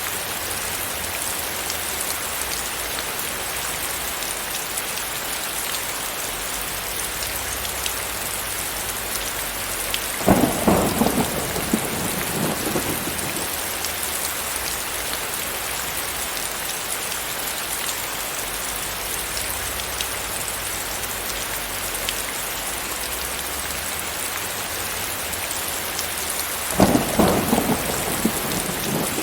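Steady heavy rain falling, an even hiss, with two rumbles of thunder, one about a third of the way in and another near the end, each lasting two or three seconds and louder than the rain.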